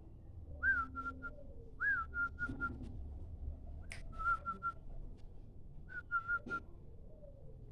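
Zebra dove (perkutut) calling: four phrases, each a short rising-and-falling whistled note followed by three or four quick short notes, used as a lure call.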